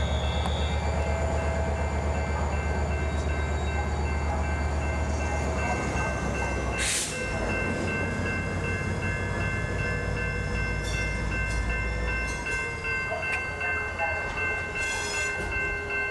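Low, steady rumble of an approaching diesel train, easing about twelve seconds in, with a short burst of hiss about seven seconds in.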